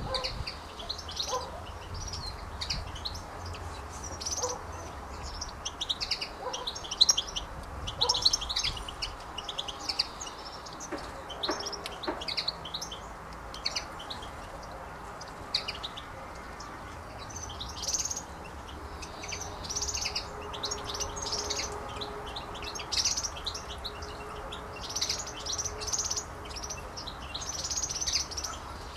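Small birds chirping: many quick, high chirps, overlapping and continuing throughout.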